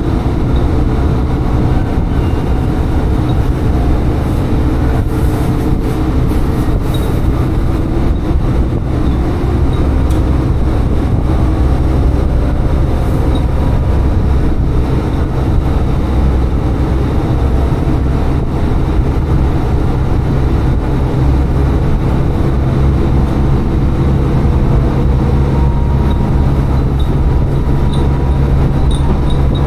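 Tsugaru Railway diesel railcar running steadily between stations: a continuous engine drone and wheel-on-rail rumble. Near the end a few faint, short high chimes ring out, from the glass wind chimes hung in the car.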